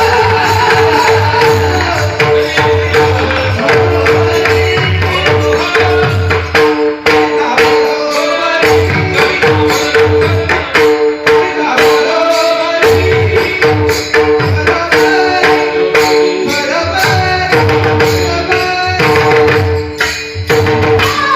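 Indian devotional music: a pakhawaj drum playing a fast rhythm with deep bass strokes over a steady held drone, with some melody above it.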